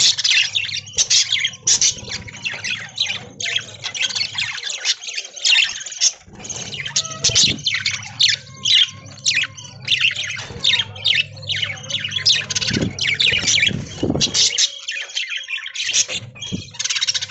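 A flock of budgerigars chattering, with many overlapping quick chirps and warbles and no pause.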